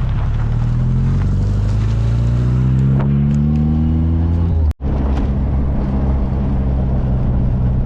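Car engine accelerating, its pitch rising steadily for about four and a half seconds. The sound then cuts out for an instant and the engine carries on at a steady cruise.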